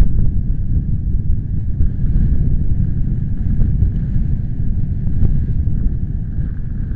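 Strong wind buffeting the microphone: a loud, low rumble that keeps rising and falling in gusts.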